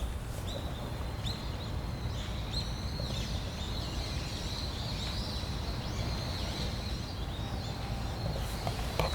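Birds calling with a steady string of short, high chirps, over a steady low rushing background.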